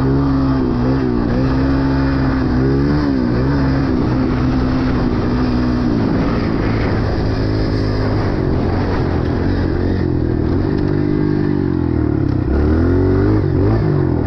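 Dirt bike engine running while being ridden, its pitch holding steady for stretches and falling and rising with the throttle a few times, with a climb in revs near the end.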